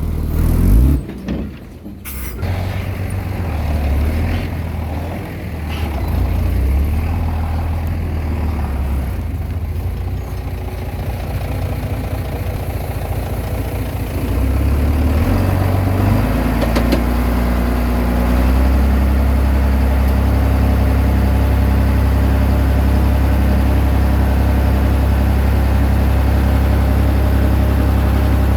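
Komatsu D20P bulldozer's diesel engine running with a deep, steady drone, after a few knocks in the first two seconds. The engine note grows louder about halfway through and holds steady and stronger near the end.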